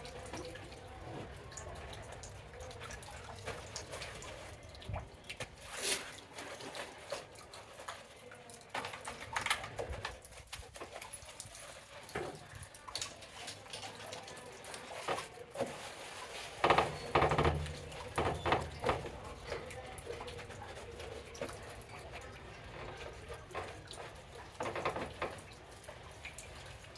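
Water dripping and splashing with scattered rubbing and small knocks as a motorcycle is wiped down with a wet, shampooed cloth, with a cluster of louder knocks and rubs a little past the middle.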